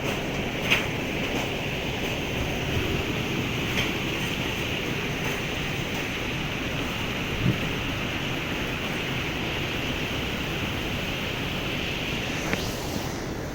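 Heavy rain falling steadily, a dense even hiss with a few single louder taps of drops hitting something close by. The hiss eases slightly near the end.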